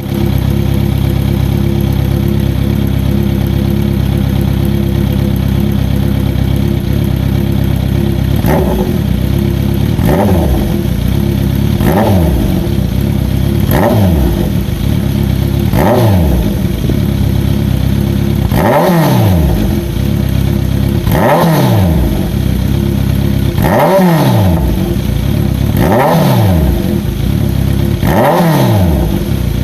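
Kawasaki Z900RS inline-four with a short aftermarket exhaust idling steadily for about eight seconds. It is then blipped about ten times, roughly once every two seconds, and each rev rises and falls back to idle.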